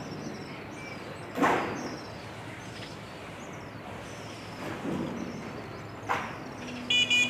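Small birds chirping in short, high notes over steady outdoor background noise. Two loud sudden knocks break in, one about a second and a half in and a sharper one about six seconds in, and a short, loud tone sounds near the end.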